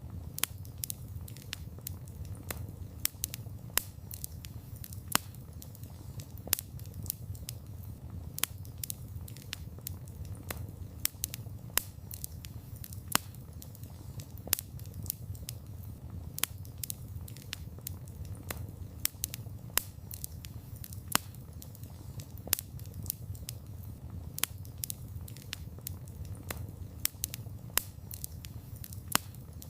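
Wood campfire crackling: irregular sharp pops and snaps, several a second, over a steady low rumble of the flames.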